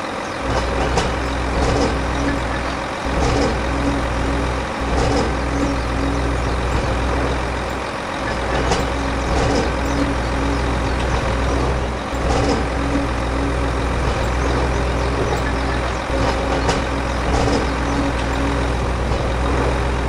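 Truck engine running steadily with a heavy low rumble that dips briefly every few seconds, with scattered short clicks on top.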